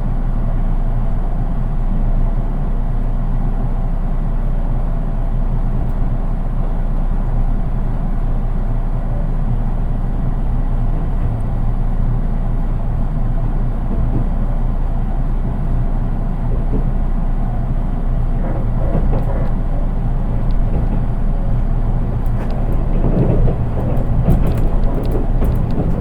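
Running noise inside the unpowered driving trailer car of a JR East 183 series electric train: a steady rumble of wheels on rails with no traction-motor sound. It grows a little louder near the end, with rattling and clicks.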